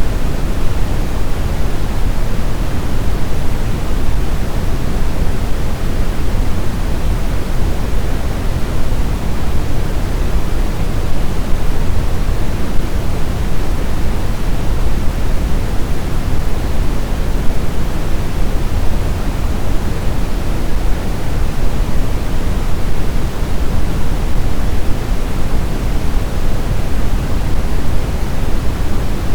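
Snowstorm wind ambience: a loud, dense, even rush, heaviest in the low end, with no distinct gusts or howls.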